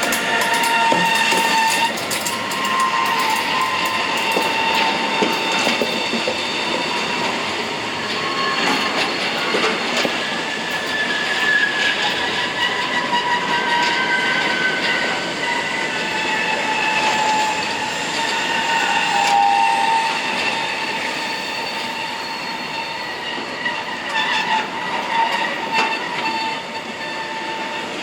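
Train rolling past with its wheels squealing on the rails: several high, shrill tones that come and go and shift a little in pitch over the continuous noise of the wheels on the track.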